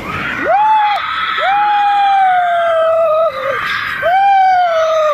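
Roller-coaster riders screaming: three long held screams, each rising sharply and then slowly falling, with other riders' voices overlapping higher up.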